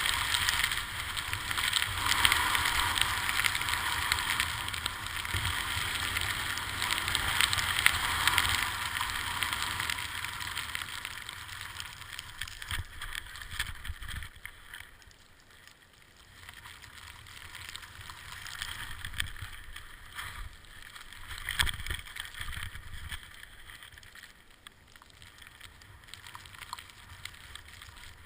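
Skis or snowboard edges hissing and scraping over snow on a descent, with wind rumbling on the microphone. The sliding noise is loud for about the first ten seconds, fades out by about the middle, then comes back in quieter, patchy scrapes.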